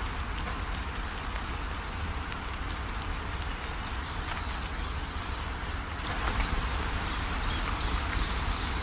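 Rain falling steadily with birds chirping over it, growing a little heavier about six seconds in.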